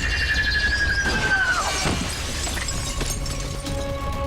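Dinah Drake's sonic canary cry, a superhuman scream drawn as a film sound effect. It is a piercing high tone held for about a second and a half, which bends down and cuts off.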